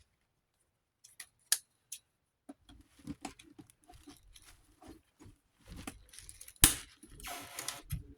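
Scattered small clicks and knocks of metal fan parts and tools being handled on a workbench, with a sharp snap about six and a half seconds in and a short rasp just after it.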